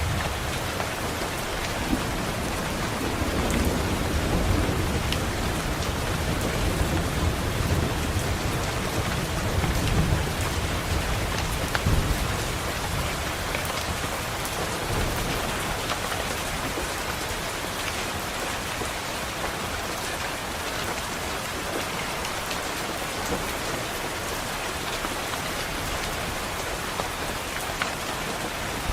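Steady rain against a window, with a low rolling rumble of thunder through roughly the first half that dies away after about thirteen seconds.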